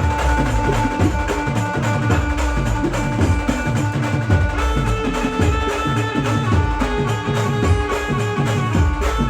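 Brass band music, an instrumental passage without singing: held melody notes over a busy, steady drum rhythm.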